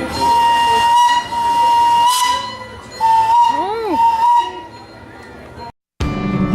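Park train's whistle blowing two blasts: a long steady one of about two and a half seconds, then a shorter one about three seconds in. A brief rising-and-falling voice, likely a child's squeal, comes during the second blast.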